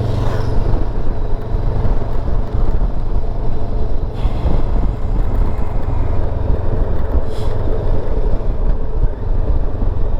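Motorcycle riding along at steady road speed: the engine runs under a constant low wind rush, with two brief hissing swells about four and seven seconds in.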